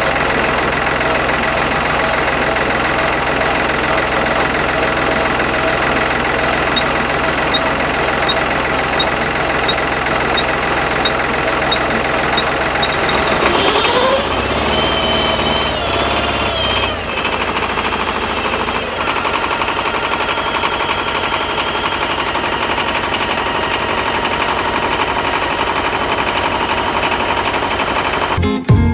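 Ford compact tractor engine running steadily, its note bending up and down for a few seconds about 14 seconds in as it takes load.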